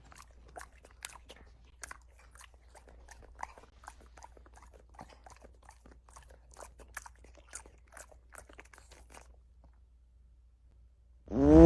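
Soft, irregular crunching chews, a few a second, as an animal eats something crunchy; they stop about nine seconds in. Right at the end a loud wavering animal cry begins.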